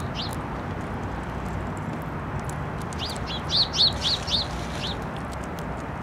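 A bird calling: one short high note right at the start, then, about three seconds in, a quick series of about eight short high notes, each rising and falling, over a steady background hiss.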